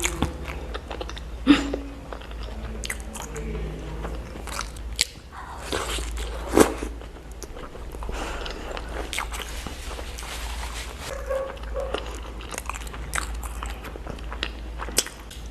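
Close-miked eating of a mukbang meal: a person biting and chewing with many small wet clicks and crunches, two sharp loud crunches standing out about a second and a half in and again about six and a half seconds in.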